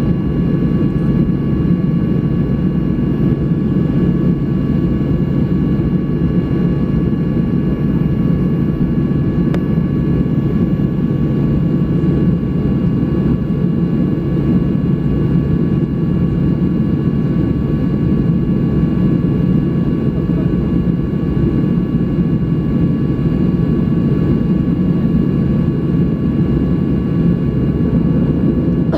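Steady cabin noise inside a Boeing 737-800 on the ground before takeoff: an even low rumble from the engines and air systems at idle, with a few faint steady high whines over it.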